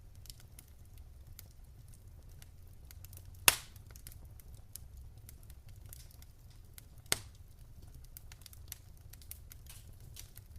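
Wood fire crackling in a fireplace: many small irregular ticks over a low rumble, with two loud sharp pops, one about a third of the way in and one about two-thirds in.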